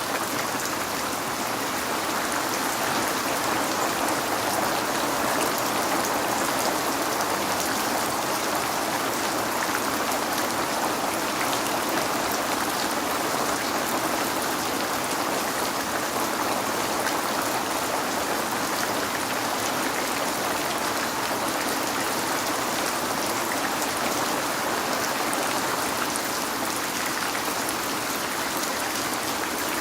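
Steady rain falling, with fine drop patter on a window-like hard surface; an even, unbroken wash with no thunder.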